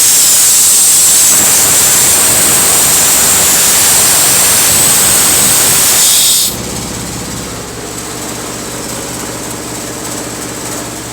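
Compressed air and water blasting out of an air compressor tank's open drain valve with a loud hiss, the sign of a tank full of condensed water. The hiss cuts off abruptly about six and a half seconds in, leaving a quieter steady mechanical hum.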